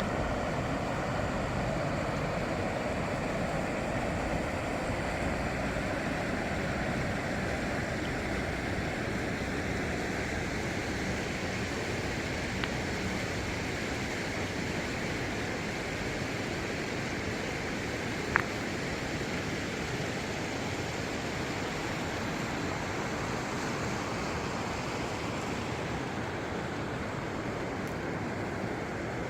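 Steady rushing of river water flowing, with one short sharp click about eighteen seconds in.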